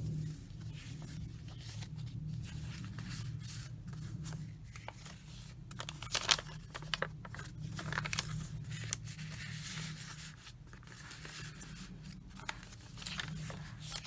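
Paper pages and ephemera of a handmade junk journal being handled, rustling and crinkling, with a cluster of sharper crackles in the middle and another near the end. A steady low hum runs underneath.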